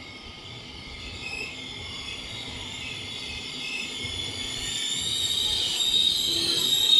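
Intercity passenger train pulling into a station and braking. High-pitched squealing from the wheels and brakes grows steadily louder over a low rumble as the train approaches.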